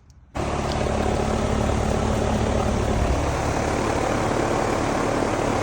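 Heat pump outdoor unit running steadily, its fan whooshing over a low hum, coming in suddenly about a third of a second in.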